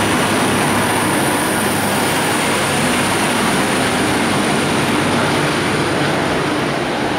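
V/Line VLocity diesel railcar set running along the platform and drawing away, a steady rumble of engines and wheels on rail that eases slightly near the end.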